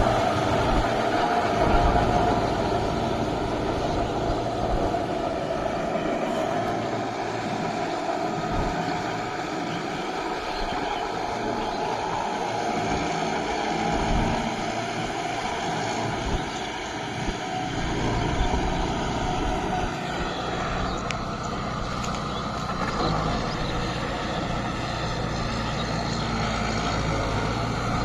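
Kubota MU5502 4WD tractor's four-cylinder diesel engine running continuously under load while working through deep mud; its low engine note thins out through the middle and comes back fuller later on.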